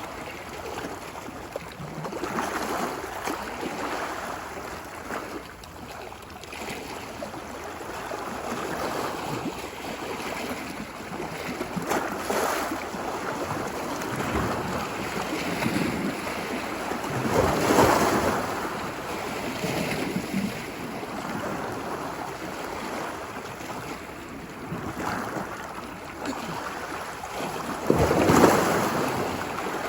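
Ocean waves washing ashore on a beach: a steady hiss of surf with waves breaking in swells every several seconds, the strongest about halfway through and another near the end.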